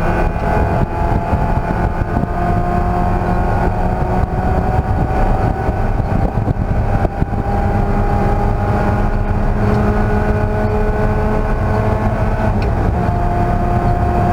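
Race car engine running hard for the whole stretch, its pitch climbing slowly and dropping back at each gear change, about four times, over steady road and wind noise.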